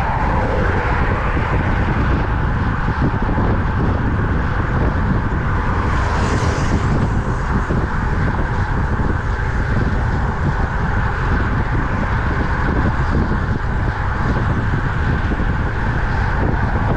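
Steady wind buffeting on the microphone over the hum of road noise while cycling at speed, with a brief brighter hiss about six seconds in.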